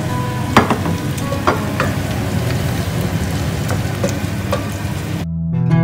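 Onions sizzling in oil in a stainless steel pot as African eggplant halves are added and stirred in with a wooden spoon, with a few sharp knocks against the pot. Near the end the sizzling cuts off and acoustic guitar music starts.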